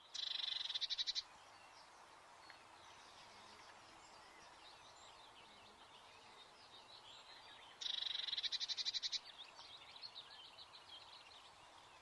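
Garden birds calling: a loud, fast rattling call of about a second, given twice, at the start and about eight seconds in, with faint chirps between.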